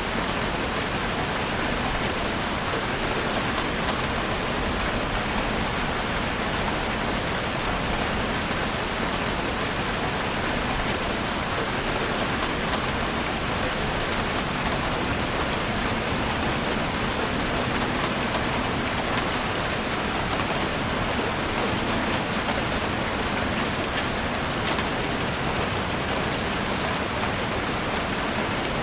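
Heavy rain drumming steadily on a chalet roof: a dense, even hiss with scattered sharper drop ticks.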